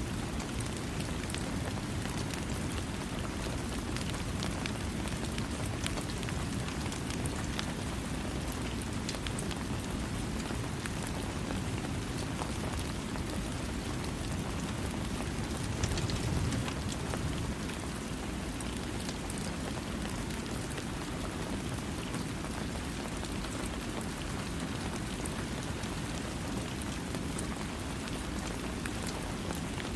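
Steady rain falling, a dense even hiss with individual drops ticking through it, and a brief swell in the low rumble about halfway through.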